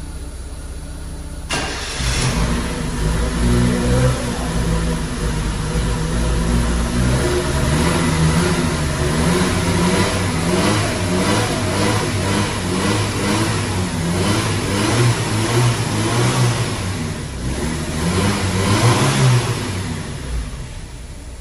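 Carbureted engine of a square-body VW Gol starting on a jump start after about a year parked: it catches about a second and a half in and runs with the revs rising and falling unevenly, then drops back and quietens near the end.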